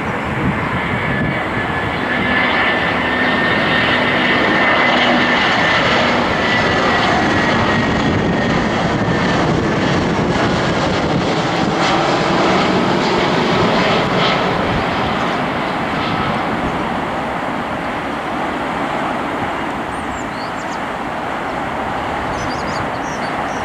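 Airbus A319 jet airliner's engines on a landing, a loud steady roar with a high whine that slowly falls in pitch. It is loudest about five seconds in, then gradually fades.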